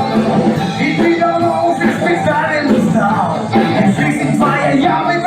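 A band playing a song with a singing voice over the instruments.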